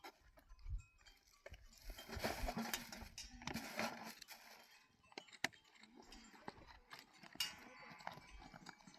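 Bells on herd animals clinking irregularly as a flock moves, over a soft rustle.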